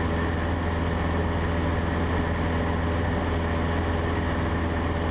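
Cessna 150's Continental O-200 four-cylinder engine and propeller droning steadily in flight, heard inside the cockpit.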